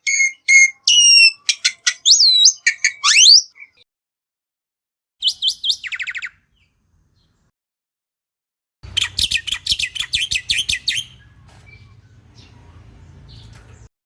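Bali myna singing: a loud run of varied whistles and harsh chattering notes, some rising steeply. After pauses come two shorter bursts of rapid repeated notes, the last trailing off into a faint low hum.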